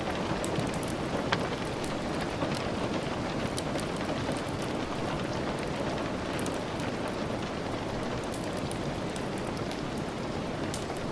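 Steady rain falling, an even hiss with scattered sharp drop taps and a few crackling pops.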